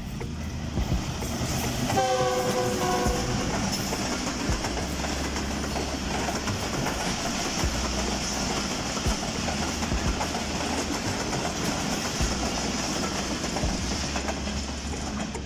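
Passenger train passing at speed behind a diesel locomotive: one short chord-like blast of the locomotive's horn about two seconds in, then the steady rumble of the coaches with a rhythmic clickety-clack of wheels over the rail joints.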